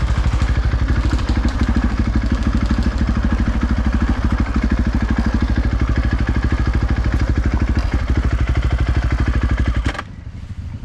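Dirt bike engine running close to the microphone, its firing pulses steady and even, until the sound drops off abruptly near the end.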